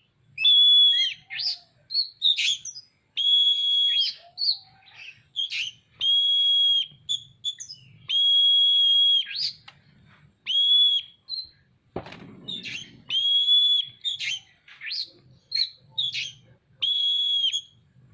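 Oriental magpie-robin (kacer) singing hard: long, steady whistled notes, each about a second, alternating with quick chirps and trills. A brief scuffing noise comes about twelve seconds in.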